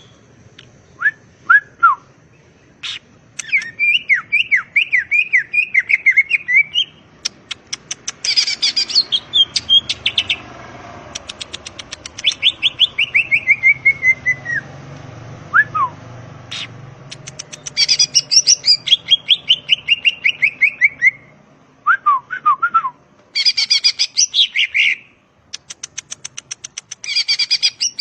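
Green leafbird (cucak ijo) singing a varied song in bursts: runs of quick falling whistled notes, fast ticking rattles and short down-slurred chirps, with brief pauses between phrases.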